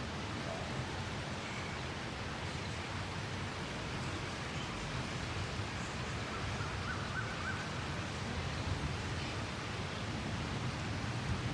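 Steady outdoor background noise, a constant low rumbling hiss, with a faint short bird trill about seven seconds in.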